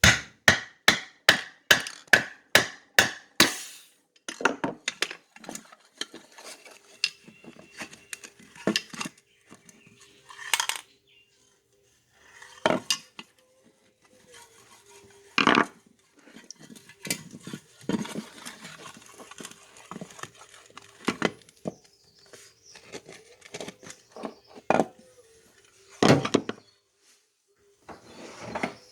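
Spray paint can shaken hard, its mixing ball rattling against the metal walls in a quick run of clacks, about three a second, for the first few seconds. Then irregular metallic knocks and clinks as the can is handled.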